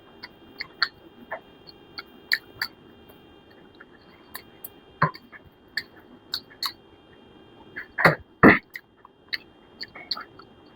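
Close-up eating sounds: chewing, with short wet clicks and lip smacks scattered throughout, and two louder mouth sounds about eight seconds in.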